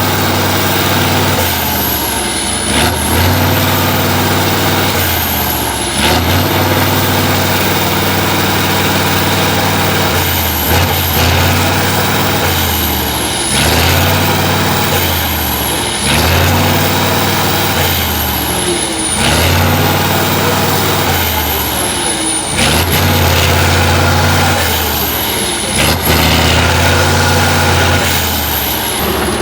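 Heavy diesel trial truck engine under repeated bursts of throttle, about every three seconds, with a high turbo whistle rising with each burst and dropping as it lets off.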